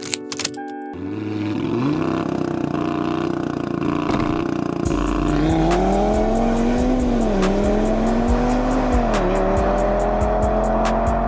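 Audi RS3's 2.5-litre turbocharged five-cylinder accelerating hard, its pitch rising and dropping twice at quick upshifts of the seven-speed dual-clutch gearbox. Music with a heavy bass beat comes in about halfway through.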